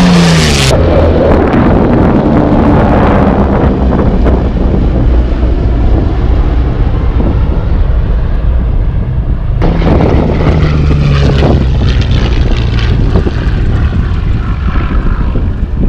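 Propeller-driven warbird flying past low and loud. Its engine note drops in pitch about a second in as it passes. Another loud pass with a steady engine tone comes about ten seconds in.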